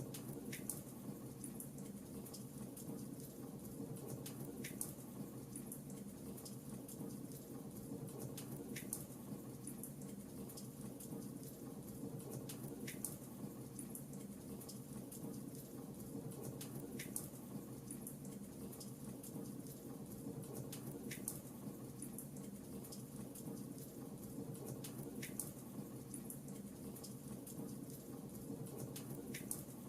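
Fireplace fire crackling: a steady low rumble with small crackles and a sharper pop about every four seconds.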